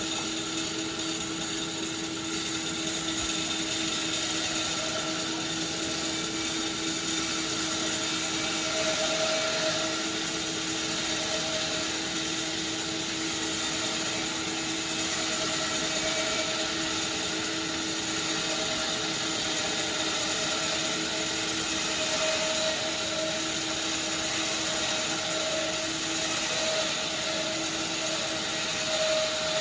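Sawmill machinery running steadily, a continuous drone with a few held tones and a high whine over it.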